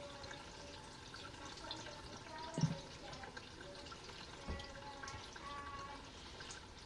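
Faint water dripping and trickling in the tub of a small RV washing machine still sudsy after its drained final rinse, with two soft knocks, one about two and a half seconds in and one around four and a half seconds in.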